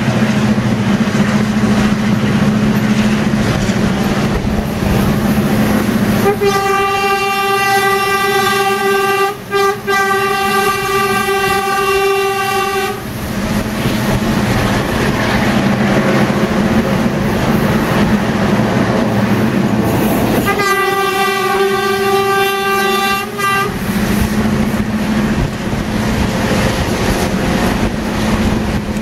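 Passenger train running along the track, heard from an open carriage window, with a steady low hum and rail noise. The train's horn sounds two long blasts: one of about six seconds starting about six seconds in, with a momentary break partway, and a shorter one of about three seconds later on.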